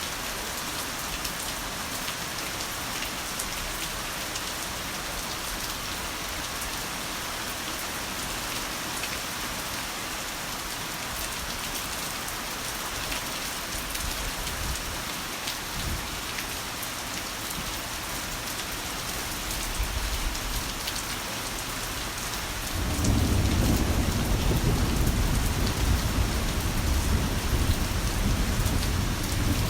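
Heavy rain falling as a steady hiss. About three quarters of the way through, a long, deep roll of thunder sets in and keeps rumbling under the rain.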